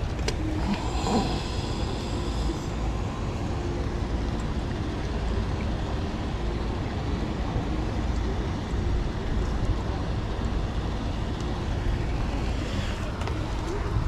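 Steady low rumble of outdoor background noise, like wind on the microphone or distant traffic. About a second in, a brief high whirring tone with several pitches.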